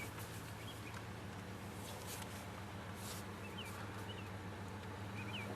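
Wood-gas-fuelled 1992 Dodge Dakota pickup engine idling with a steady low hum, while a bird gives a few short chirps now and then.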